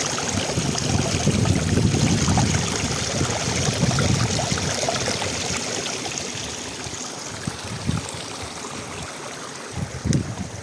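Mountain stream water running steadily, louder with low churning swells over the first half and easing off later, with a few small knocks near the end.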